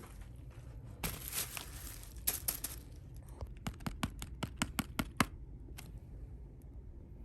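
Packaging of a delivered meal being opened by hand: a rustling, tearing stretch of plastic wrapping for about two seconds, then a quick run of about a dozen sharp clicks.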